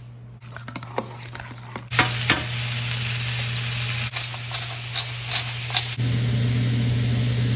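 Zucchini noodles sizzling in a hot frying pan: a loud, steady frying hiss that sets in about two seconds in. Before it come a few soft clicks from a hand-held squeezer pressing lime juice over guacamole in a steel bowl, and a steady low hum runs underneath throughout.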